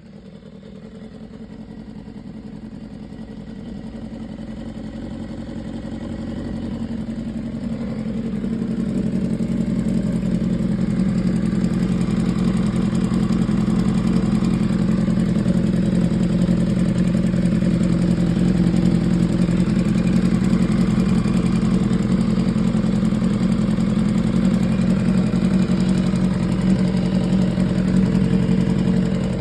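2015 BMW S1000RR's inline-four engine idling steadily, growing louder over the first eight seconds or so and then holding level. It carries the top-end ticking noise that this bike has at 7,800 miles.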